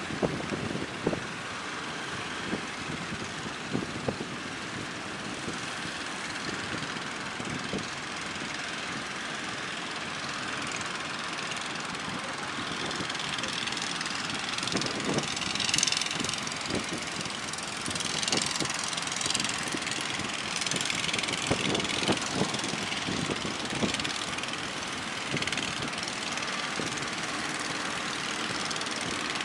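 Small fishing boat engines running over a steady rush of wind and surf, with wind buffeting the microphone in low thumps. The sound gets louder and brighter about halfway through.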